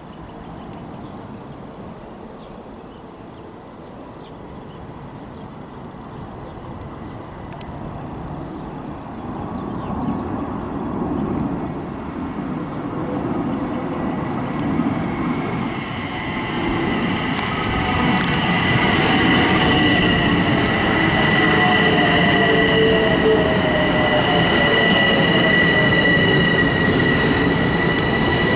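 Long Island Rail Road train approaching and passing: a rumble of wheels on rails that grows steadily louder, joined about halfway through by a steady high whine that drops in pitch near the end as the train goes by.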